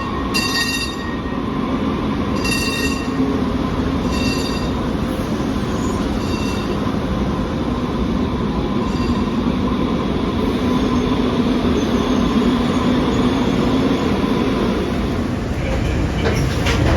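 A Breda LRV2/3 light rail car running, heard from on board: a steady rumble with a constant motor tone and some wheel squeal. A few fading, repeated beeps sound in the first several seconds, and a short burst of sharp clicks and clatter comes near the end.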